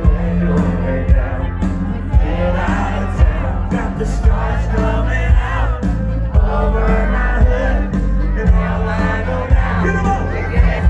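Live concert music over loud speakers: a band with a heavy bass and a steady drum beat about twice a second, a singer's voice, and the crowd cheering and singing along.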